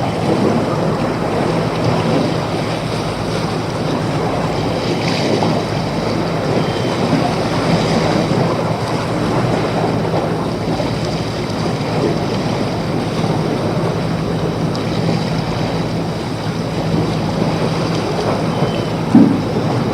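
Steady rushing noise of water and wind, with a low steady hum underneath and a single thump near the end.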